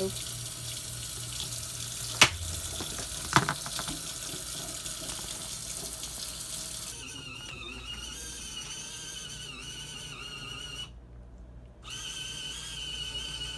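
Water running, as from a tap, while filling a portable folding washing machine's tub, with two sharp knocks a couple of seconds in. In the second half a faint, steady high whine takes over and briefly cuts out.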